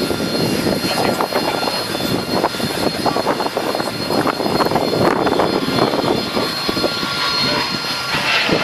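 Aircraft engine noise: a continuous, uneven drone, recorded through a phone's microphone.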